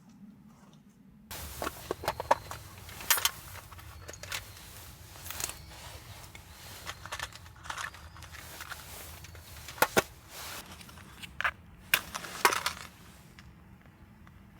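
Irregular crunching and sharp clicks that start suddenly about a second in, over a low steady rumble.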